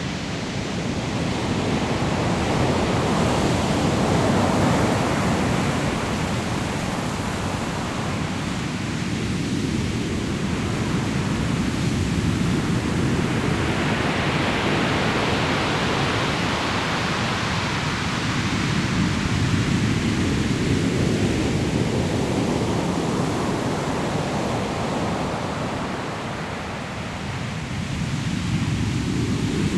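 Sea waves breaking on a pebble shore and washing back, a steady surf noise that swells and eases in slow surges several seconds apart.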